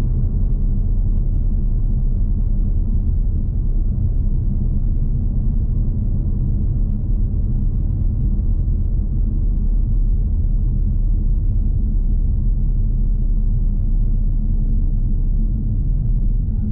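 2020 Jaguar XE P300's 2.0-litre turbocharged four-cylinder and its tyres, a steady low rumble of the car being driven.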